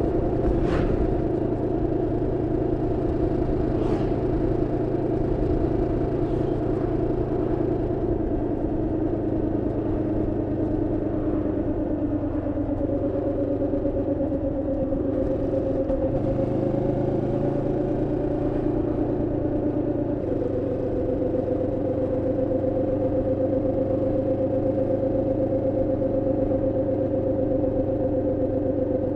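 Moto Morini X-Cape 650's 649 cc parallel-twin engine running steadily under way, an engine still being run in. Its note shifts slightly near the middle and steps up a little about two-thirds in.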